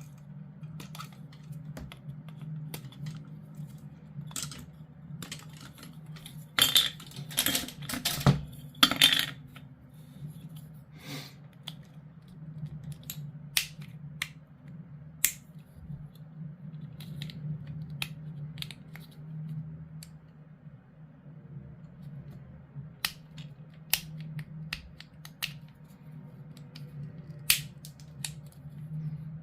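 Hard plastic model-kit parts clicking and tapping as they are handled and fitted together, with a louder run of clattering about seven to nine seconds in. A steady low hum sits underneath.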